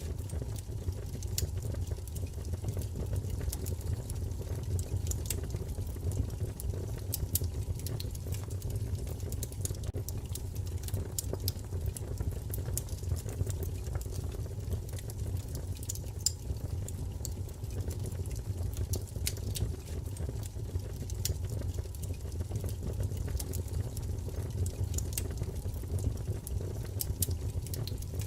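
Wood fire burning: a steady low roar of flames with frequent sharp, irregular crackles and pops of burning wood.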